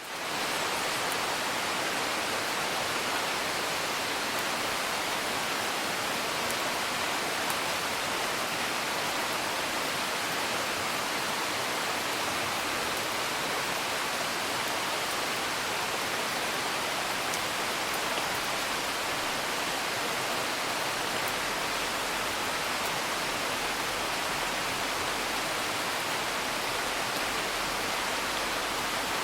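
Steady rain, an even hiss that fades in at the very start, with faint scattered ticks.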